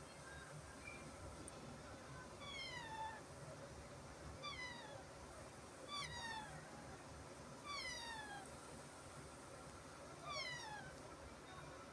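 Baby parrot chick giving five short, falling, meow-like calls, each about half a second long and spaced a couple of seconds apart, with a few softer chirps before them.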